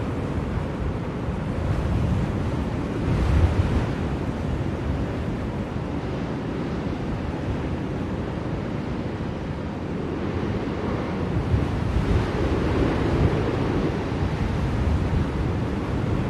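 Blizzard wind blowing steadily, a low rushing noise that swells in gusts about three seconds in and again near the end.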